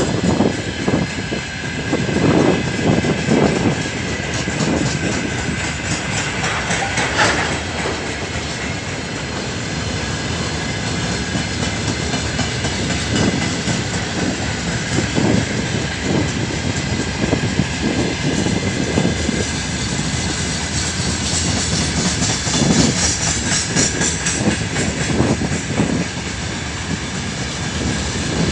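A long freight train rolling past. Its wagon wheels clatter over the rail joints in repeated groups of knocks over a steady rumble, with a thin steady whine above them.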